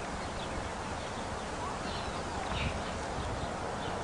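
Steady outdoor background hiss and low rumble, with a few faint, short, high chirps.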